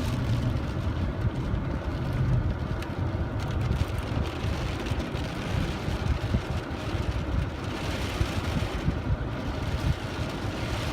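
Storm noise: a steady low rumble of heavy rain and wind buffeting the microphone.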